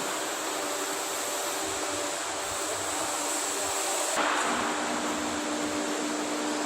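Stretch bending machine running with a steady mechanical drone and hum. About four seconds in, a brief rush of noise starts and the hum settles onto a lower, stronger tone, as the machine's drive changes load.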